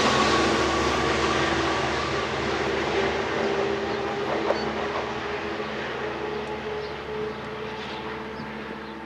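Diesel train running past and moving away, its engine tones and rolling noise fading steadily.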